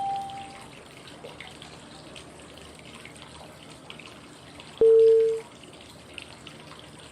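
Steady flowing-water white noise with two short, clean cue tones about five seconds apart: a higher one at the start that fades away, and a lower, louder one about two-thirds of the way through. The tones mark the switches between the inhale, hold and exhale phases of 5-5-5 breathing.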